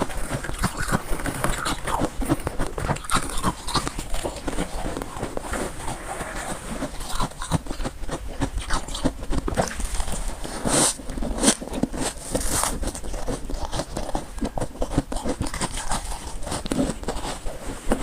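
Close-miked chewing of crunchy freezer frost: a steady run of many small crackling crunches.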